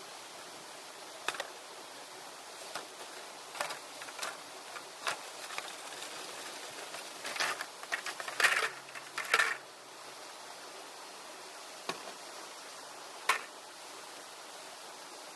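Irregular light clicks and knocks, a dozen or so, bunched most thickly a little past the middle, over a steady background hiss.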